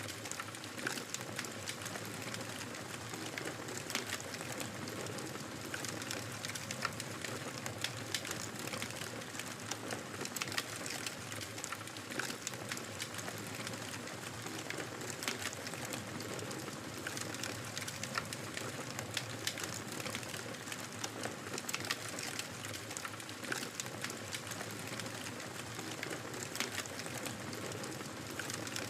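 Wood fire crackling: a steady soft hiss with frequent sharp pops and snaps at irregular intervals.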